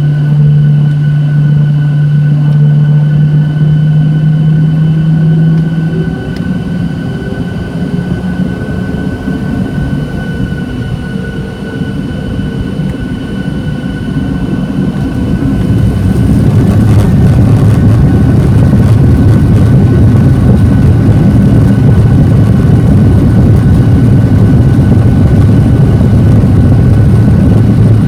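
Boeing 737-800 jet engines. A strong low steady hum drops away about six seconds in, followed by a quieter stretch. From about sixteen seconds the engines build to a loud, steady roar, typical of takeoff thrust.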